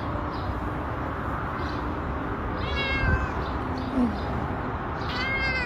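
A cat meowing twice, high-pitched, once about three seconds in and again near the end, over steady background noise.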